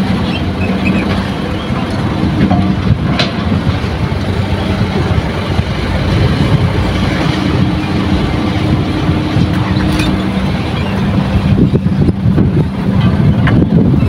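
Hitachi excavator's diesel engine running at a steady note next to a dump truck, with a heavy, rough rumble and a couple of sharp knocks, about three seconds in and about ten seconds in, as soil is loaded into the truck.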